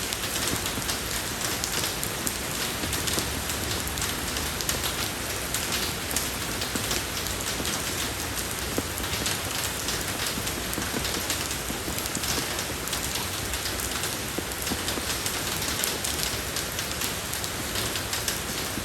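Steady rain falling on a road, a dense even hiss with many small drop ticks.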